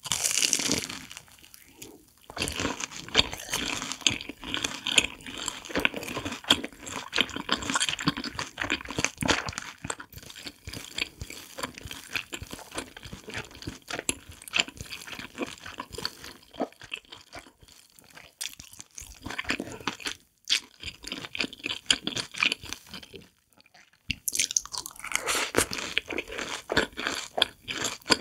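Close-miked crunching and chewing of a crisp-coated fried corn dog with a sausage inside. A loud crunchy bite opens a dense run of crackly chewing, which thins to quieter chewing in the middle; a second burst of loud crunching comes near the end.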